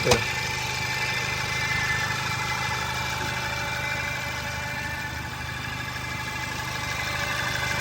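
VW Golf GTI's 2.0-litre turbocharged four-cylinder engine idling steadily, heard with the hood open. A single sharp click comes right at the start.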